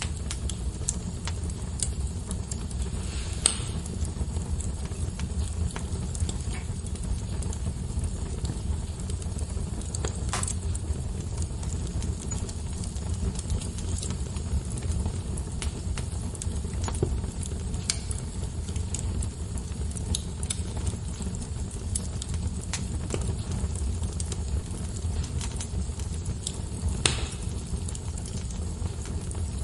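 Wood fire crackling, with sharp pops every several seconds over a steady low rumble.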